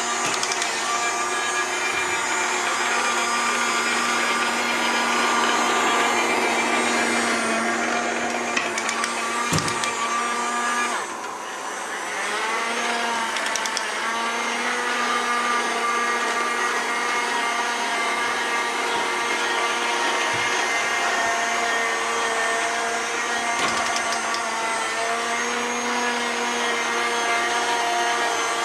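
Small robot vacuum cleaner running with a steady motor whine and hiss. About nine seconds in there is a knock, then the sound dips briefly and the whine glides back up to its steady pitch.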